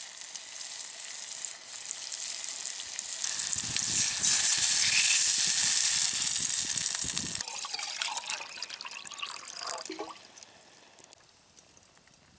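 Bologna and mushrooms frying in a steel pot over campfire coals, with a steady hiss of sizzling. The sizzle swells loud for a few seconds as raw egg mixture is poured into the hot pot, then dies down.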